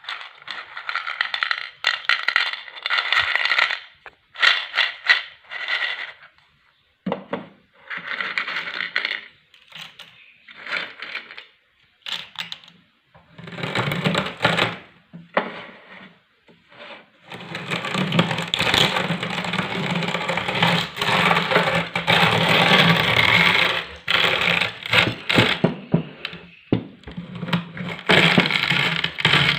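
Electric meat grinder crushing hard, brittle pieces. It starts with stop-start bursts of rattling and cracking, then from a little past halfway the motor runs steadily under continuous crackling and crunching.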